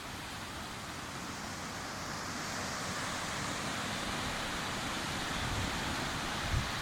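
Sea waves washing onto a beach in a steady roar of surf that swells gradually, with a few low bumps of wind on the microphone near the end.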